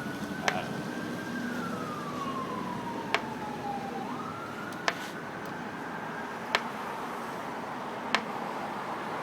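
Slow wailing siren, its pitch gliding down over a few seconds, then rising again and holding high. A sharp click sounds roughly every second and a half.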